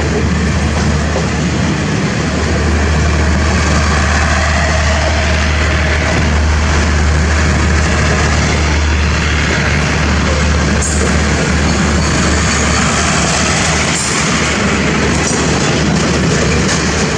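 Thai diesel train running close by: a steady loud rumble with a deep engine hum and rail noise.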